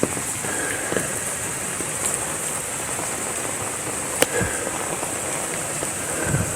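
Steady rain falling, with scattered sharp drips striking a hard surface; one drip hit about four seconds in is louder than the rest.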